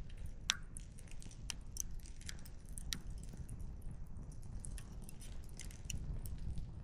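Wood campfire crackling, with irregular small pops and one sharp, louder pop about half a second in, over a low steady rumble.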